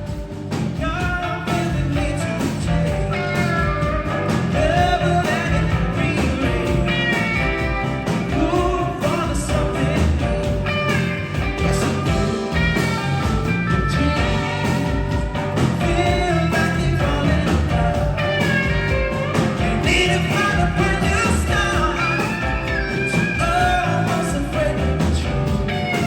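Yacht-rock style song: a lead vocal singing over a band with a steady beat, swelling in over the first second.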